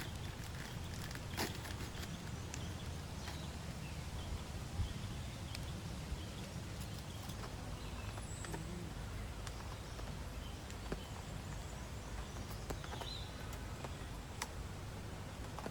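Steady rain with scattered drops tapping and clicking irregularly over the constant hiss.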